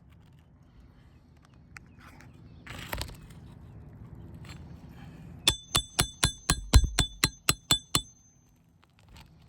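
Hammer striking a nail puller about a dozen times in quick succession, roughly four blows a second, each ringing metallically, to drive its claw under a roofing nail in an asphalt shingle. Some rustling and a short scrape come first.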